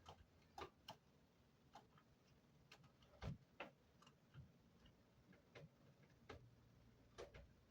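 Near silence broken by scattered faint clicks and taps, about a dozen at uneven intervals, with one louder knock about three seconds in.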